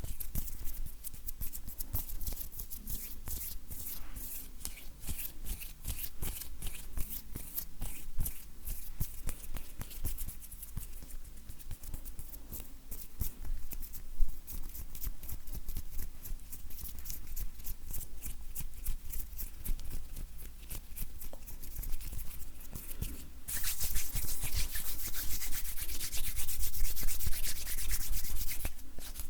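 Dry bare hands rubbing and brushing together close to the microphone, making many short, hissy strokes of skin on skin. About 23 seconds in, the rubbing turns faster and louder.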